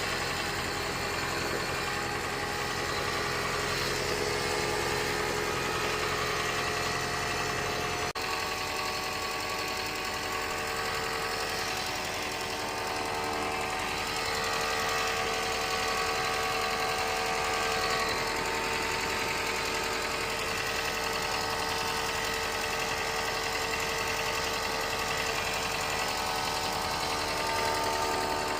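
Loud, steady mechanical running noise from a second-generation Toyota Prius with its heater on, with several steady tones that shift suddenly about eight seconds in. According to the title, the noise comes on with the heater and is not a blower issue.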